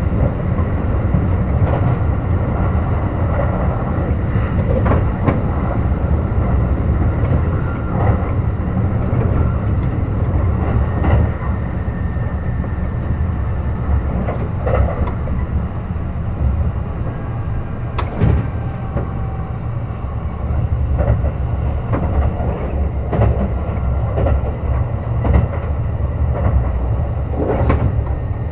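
Kintetsu 21000-series Urban Liner Plus electric limited express running along the line: a steady low rumble of wheels on rail, broken by scattered sharp clicks from the track.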